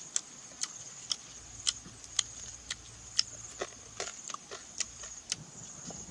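A steady high-pitched buzz with sharp clicks or cracks about twice a second over it.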